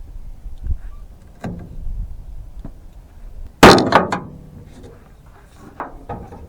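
Knocks and clunks of hands and tools working on a truck. The loudest is a sharp bang with a few quick clicks about three and a half seconds in.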